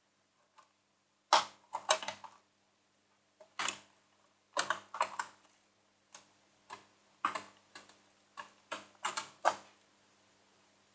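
Plastic cookie packet crackling and clicking in short irregular clusters as it is handled.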